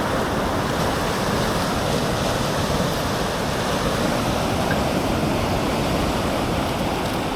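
Steady rushing noise of sea surf breaking on a sandy beach, mixed with wind buffeting the microphone.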